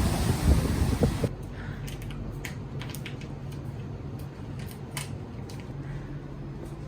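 Wind buffeting the microphone, cut off abruptly about a second in, followed by a steady low hum with scattered light clicks and taps.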